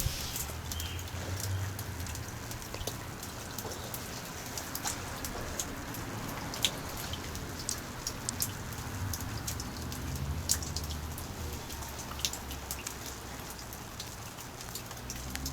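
Rain falling during Hurricane Sandy, with many separate drops ticking sharply on a hard surface at irregular moments over a steady hiss and a low rumble.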